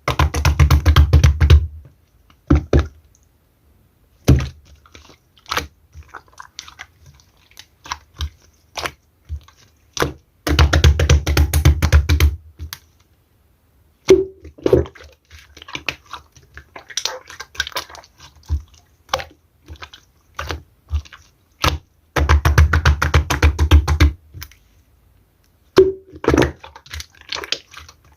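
Clear slime being squeezed and pressed by hand, making runs of rapid sticky clicks and pops. Three dense runs of about two seconds each are spread through, with scattered single clicks between.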